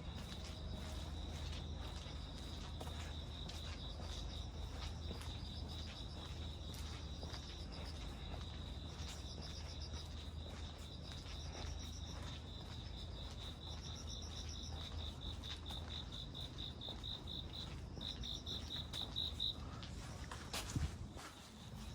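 Crickets trilling: a steady high-pitched trill that breaks into rapid pulsed chirps in the second half and stops about three-quarters of the way in. Under it, light rain ticks and a low steady hum.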